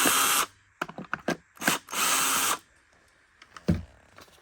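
A cordless drill run in two short bursts to back out screws, one right at the start and a longer one about two seconds in, with plastic clicks and a knock as the vacuum's parts are handled.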